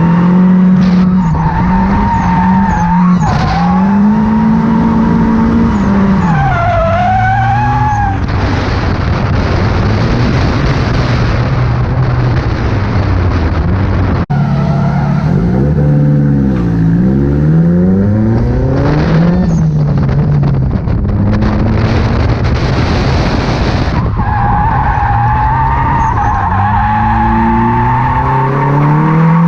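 Drift car's engine revving up and down repeatedly through a run. Two long stretches of tyre screech come in the middle as the car slides.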